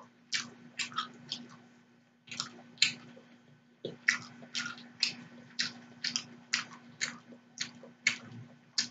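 A person chewing food close to the microphone, with a run of sharp wet mouth and lip smacks about twice a second.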